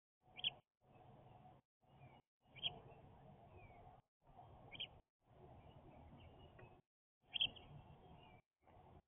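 Bird at a feeder giving short high chirps, four of them about two seconds apart, over a faint background hiss that keeps cutting in and out.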